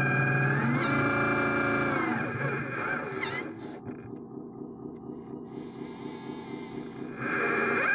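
Motor whine of an RC construction machine, rising in pitch about half a second in, holding, then falling away after two seconds. It settles to a quieter, fast pulsing run, then climbs back loud near the end.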